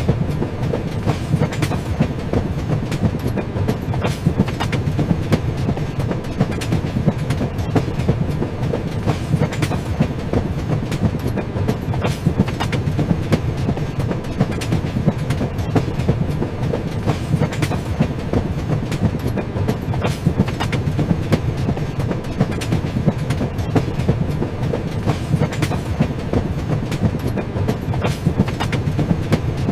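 Train running along the rails: a steady low rumble of wheels on track, overlaid with frequent, irregular clicks and knocks of the wheels over rail joints.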